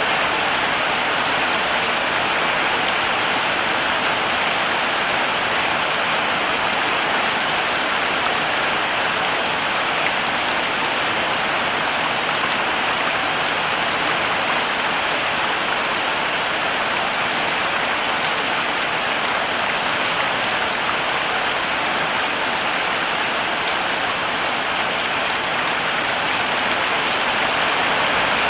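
Heavy rain falling steadily, an even hiss of many drops with no breaks or changes.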